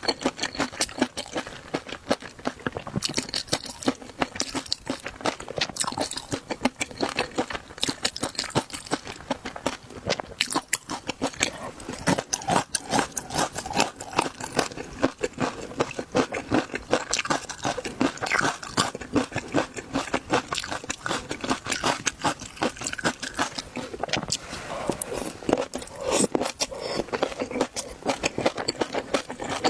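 A person chewing crunchy seafood close to the microphone: continuous, rapid crunching and crackling bites.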